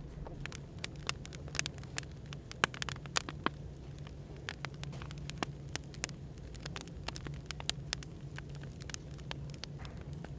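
Wood fire crackling, with many irregular sharp pops and snaps, over a steady low background hum.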